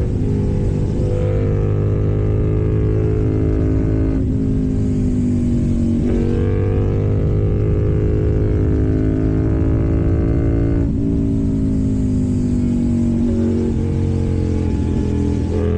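KTM Duke 790's parallel-twin engine through an Arrow full exhaust system, under way, its note slowly falling and climbing several times with throttle and gear changes.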